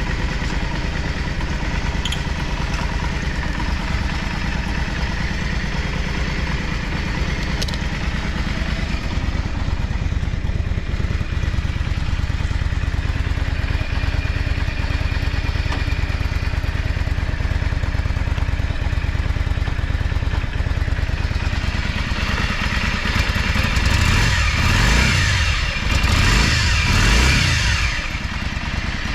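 Yamaha Drag Star 400 Classic's air-cooled V-twin idling steadily, then revved up and back down a few times near the end. The bike is sold as running smoothly with no abnormal noises.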